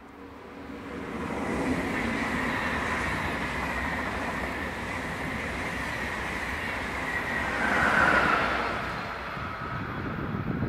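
SBB passenger train of red-and-white coaches with a Re 460 electric locomotive passing at speed: a steady rush of wheels on rails that builds over the first two seconds, with a faint high whine, and swells to its loudest about eight seconds in.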